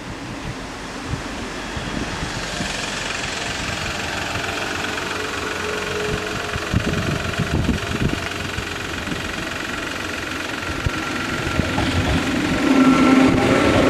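Approaching SGMm Sprinter electric multiple unit: the noise of the train on the rails grows steadily louder and is loudest near the end as the train reaches the crossing.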